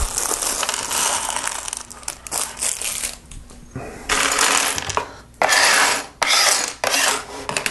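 Small plastic LEGO pieces clattering and rattling as they are tipped out of a plastic parts bag and spread around on a hard surface. The clatter comes in several loud bursts in the second half.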